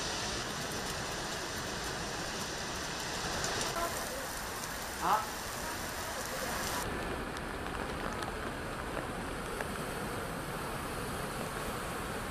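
Heavy rain falling steadily on streets and standing water, a constant hiss whose tone shifts abruptly a few times. About five seconds in, a short falling cry or call sounds over it, the loudest moment.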